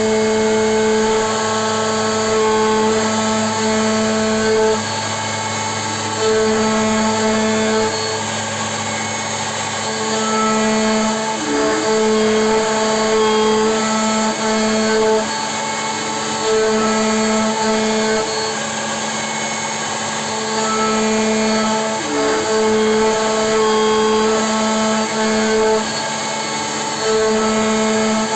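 CNC milling machine running: a steady whine of a few fixed pitches that cuts in and out every one to four seconds over a constant machine noise.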